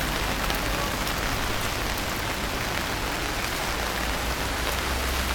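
Massed chatter of a huge flock of birds settling into trees, blending into one dense, steady hiss.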